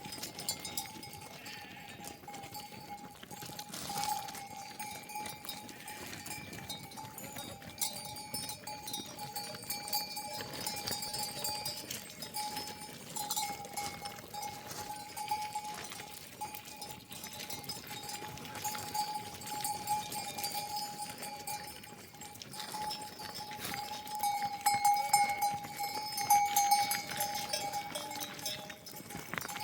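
Bells on a grazing flock of sheep and goats clanking and ringing steadily, with a run of louder clanks near the end.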